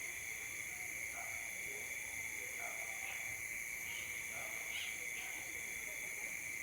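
Steady insect chorus, a continuous high-pitched drone in several bands, with short scattered chirps of other small animals over it.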